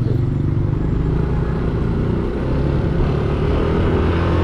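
Yamaha NMAX 155 scooter's single-cylinder engine running steadily at cruising speed, heard from the rider's seat with road noise.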